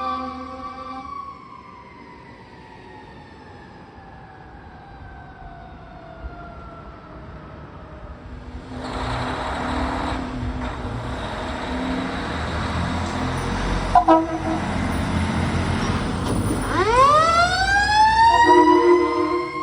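Fire truck responding with its siren: the wail slowly falls in pitch over the first several seconds, the truck passes loudly, and the siren winds back up steeply near the end.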